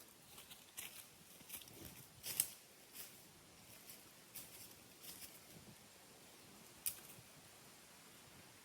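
Hand pruning shears snipping twigs and small branches: faint, short, sharp clicks and crackles at uneven intervals, the loudest about two and a half seconds in and again near seven seconds.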